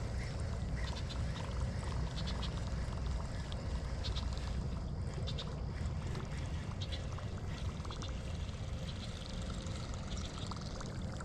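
Light water splashing and gurgling over a steady low rumble of wind, with scattered faint ticks.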